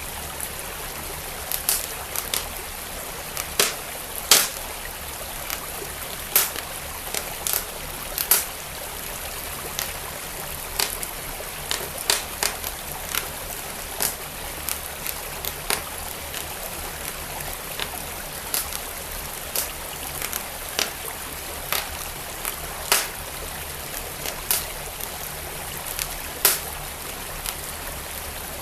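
Wood fire crackling in a fireplace, with sharp irregular pops about once or twice a second, over the steady rush of a flowing stream.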